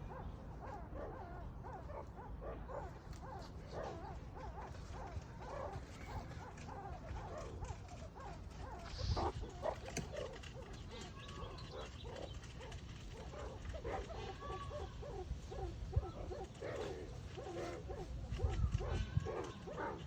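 Meerkats calling: many short, rapid chirps and yips overlapping one another over a low rumble, with a louder, higher-pitched call about halfway through.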